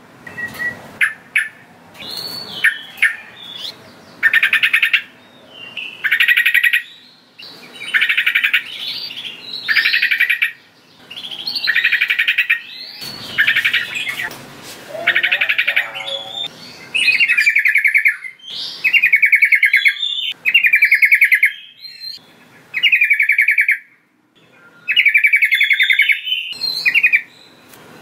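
Yellow-vented bulbul (trucukan) singing: a series of loud, roughly one-second bubbly phrases of rapid notes, repeated every second or two.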